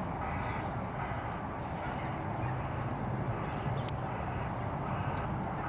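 Distant Boeing 747 jet engines, a steady low rumble as the airliner flies away.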